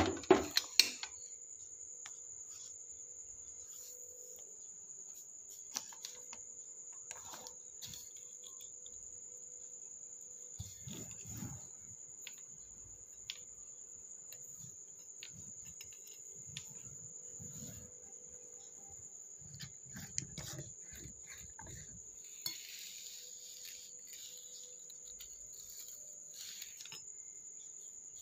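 Scattered clinks and knocks of kitchen utensils and pots being handled, with a few dull thuds, over a steady high-pitched cricket chirp.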